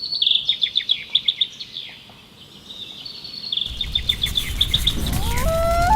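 A songbird sings a quick series of high chirps and trills. After about three and a half seconds a low rumble sets in and grows louder, with tones sliding upward near the end.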